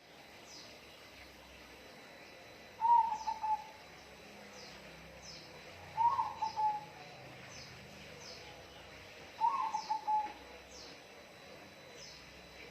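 A bird calling three times, about three seconds apart, each call a short run of quick stuttering notes lasting about a second. Faint high, short downward chirps repeat in the background.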